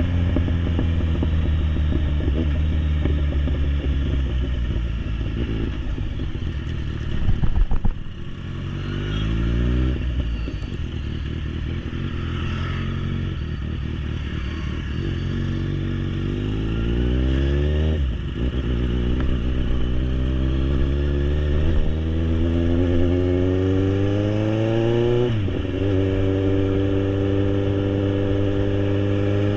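Kawasaki Z800's inline-four engine with an SC Project aftermarket exhaust, pulling hard through the gears: the pitch climbs in each gear and drops sharply at each upshift, about 8, 18 and 25 seconds in, then holds steady at cruising speed. A brief loud burst of noise comes just before the first shift.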